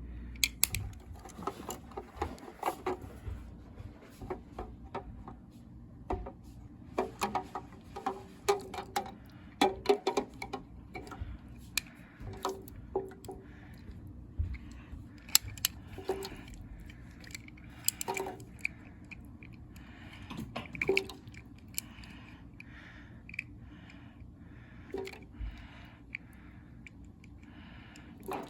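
Irregular clicks, taps and knocks of small objects being handled, bunched in the first half and thinning out later, over a faint steady low hum.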